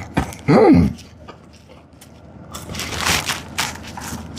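Crunching and chewing of crispy French fries close to the mouth, with a short hummed 'mm' about half a second in.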